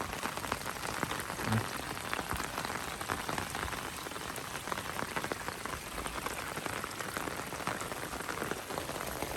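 Steady rain falling, with many small drop hits close to the microphone, from a tropical storm.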